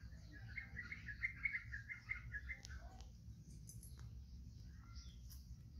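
A bird chirping in a quick run of notes for about two seconds, over a faint low steady rumble, with a few soft clicks afterwards.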